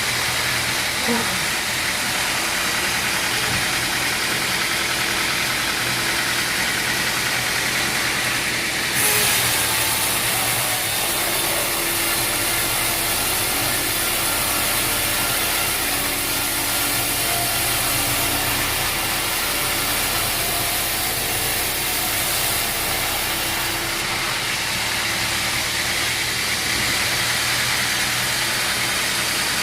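Sawmill machinery running with a steady engine drone. A bright hiss joins in about nine seconds in and drops away again about fifteen seconds later.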